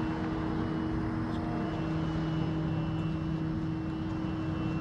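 Steady engine drone with a held hum; one of its tones drops a little in pitch about two seconds in.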